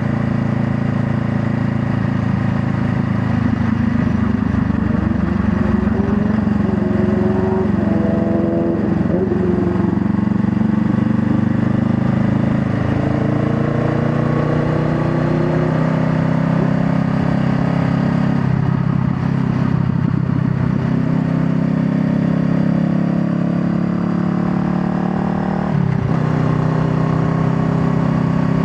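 Honda Rebel 500's parallel-twin engine under way, its pitch climbing and dropping back several times as it runs up through the gears, then holding steady, with a sudden change in pitch near the end at another shift.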